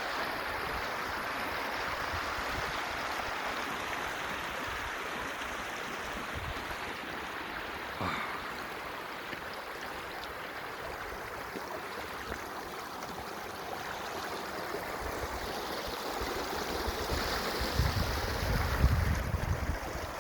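Water flowing steadily along an irrigation channel. Wind buffets the microphone near the end.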